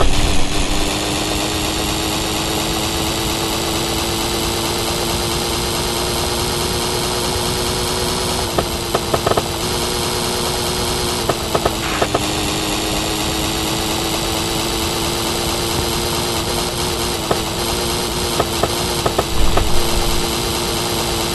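Moped's small two-stroke engine running hard at steady high revs, its pitch creeping slowly up, dropping sharply about twelve seconds in, then climbing again.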